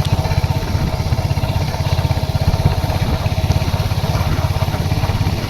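Royal Enfield Hunter 350's single-cylinder engine idling with a steady, even low thump.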